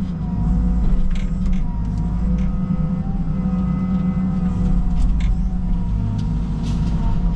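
Caterpillar 306 mini excavator's diesel engine running steadily under load, with a hydraulic whine that drifts slightly in pitch as the arm works. A few short knocks and cracks of debris are heard through it.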